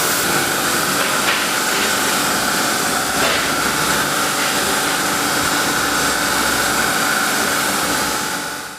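Intermac CNC stone-working machine running as its probe scans a template: a steady hiss with a constant mid-pitched hum, and faint clicks about a second and about three seconds in. The sound fades out near the end.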